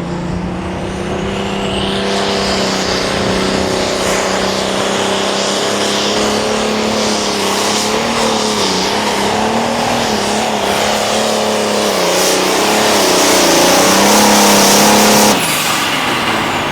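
Super stock pulling tractor's turbocharged diesel engine running flat out under load while pulling the sled. Its pitch wavers and dips midway, it grows louder toward the end, and it is cut back suddenly about fifteen seconds in.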